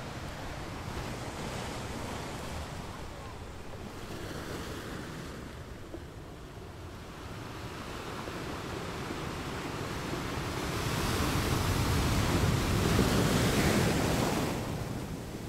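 Ocean surf, waves washing in continuously: a softer stretch, then a larger wave building past the middle and falling away near the end.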